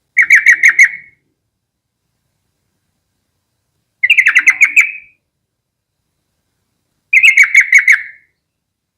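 Yellow-vented bulbul calling: three bursts of quick chattering notes, each about a second long, coming a few seconds apart.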